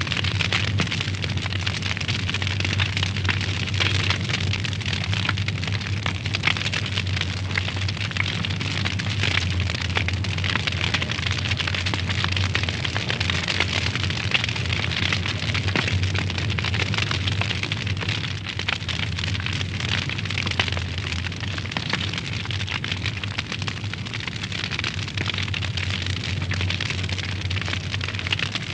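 Wood fire burning in a fireplace, crackling and popping continuously with many small sharp snaps over a steady low rumble.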